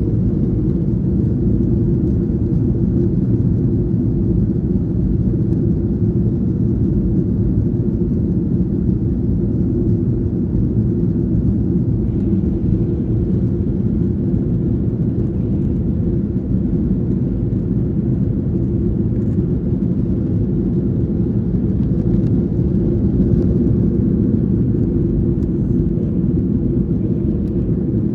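Steady low drone inside a jet airliner's cabin in flight: engine and airflow noise, even and unbroken.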